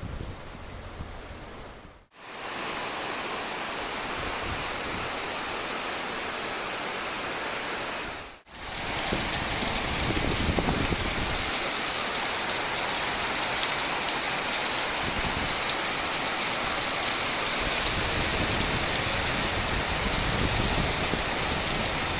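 Heavy rain pouring steadily in a windstorm, a continuous hiss. It cuts out briefly twice, about two seconds and about eight seconds in, and is louder after the second break.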